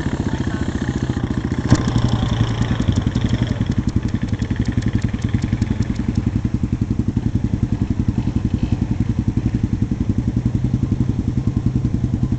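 Small motorcycle engine idling steadily with a quick, even pulsing beat, with a sharp click about two seconds in and light rapid ticking over the first few seconds.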